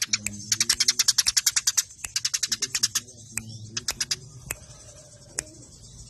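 Eurasian tree sparrows chattering in fast runs of sharp, high chirps, about ten a second, in bursts with short pauses and a few single chirps after: the agitated calling of sparrows squabbling.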